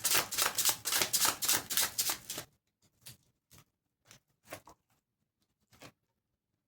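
Tarot deck being shuffled, a quick run of card flicks that stops about two and a half seconds in. A few soft, separate card taps follow as cards are handled and laid down.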